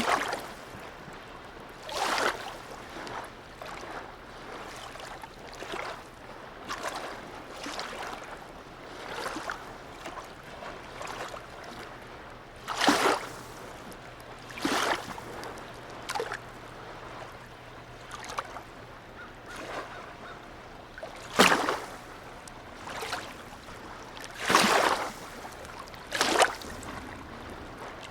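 Harbour water lapping and slapping in irregular splashes a second or two apart, the loudest a little before halfway and in the last third, over a steady wash. A faint low steady hum runs underneath and stops about two thirds of the way through.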